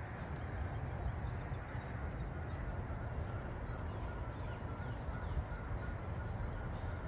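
Small birds chirping faintly over a steady low rumble. For a few seconds in the middle, one bird repeats a short note at an even pace.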